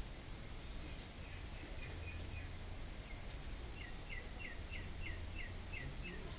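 A small bird calling a quick run of short, downward-sliding chirps, about three a second, starting a little after halfway, with fainter chirps earlier, over steady low background noise.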